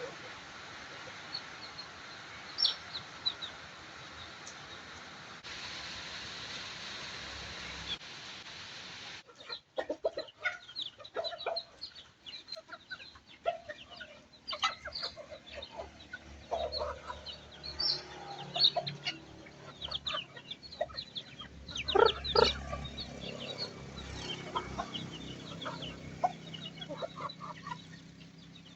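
Domestic chickens clucking and calling, with many short high chirps among them. For the first nine seconds a steady hiss carries only a few chirps; then the clucking comes thick, loudest a little past the middle.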